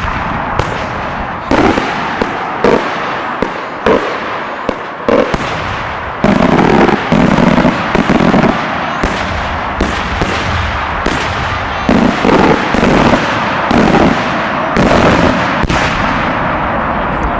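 Multi-break aerial firework shells bursting one after another: a dense run of sharp bangs over a continuous crackling roar.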